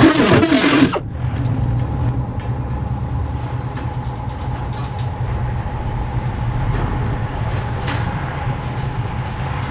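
Cutoff wheel grinding through sheet steel, cutting off abruptly about a second in. After that, a steady low machine hum with a faint whine and a few light ticks.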